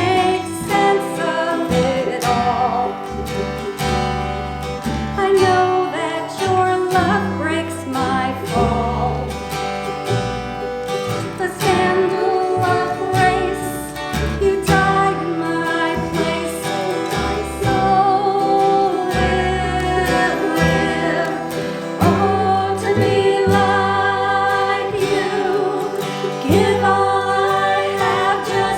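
Live worship song: a group of singers with instrumental accompaniment, including plucked strings.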